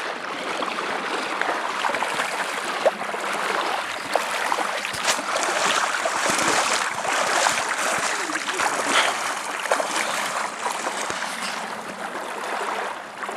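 Water splashing and rushing as someone wades through a shallow, cold river in boots, with scattered sharper splashes from the steps over the steady sound of flowing water.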